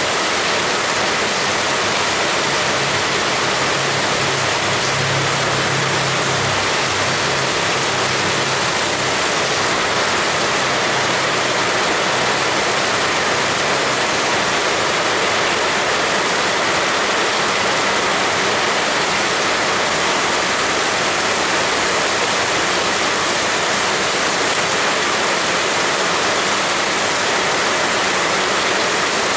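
Heavy rain falling, a steady dense hiss. A faint low hum comes and goes in the first half.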